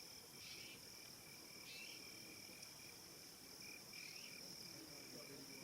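Faint, steady high-pitched trilling of crickets at dusk on the savannah, with short chirps repeating every second or two over the top.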